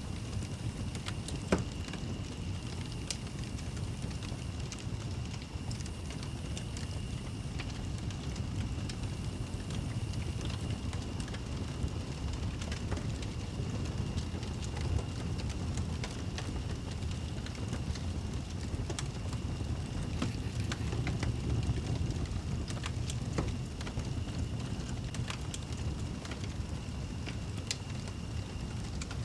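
Fireplace fire crackling, with scattered sharp pops over a steady low rumble, and a faint steady high tone running through it.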